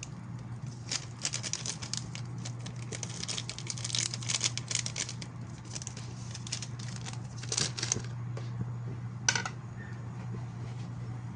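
Hot oil crackling and popping in irregular clusters as milkfish fries in the pan, over a steady low hum.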